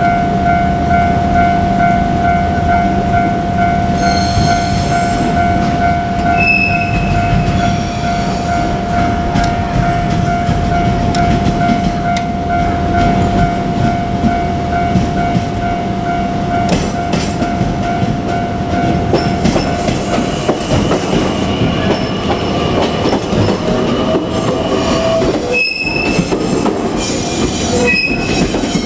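817 series electric train passing over a level crossing, its wheels clattering on the rails, while the crossing's warning bell keeps up a steady ringing tone for the first two thirds or so.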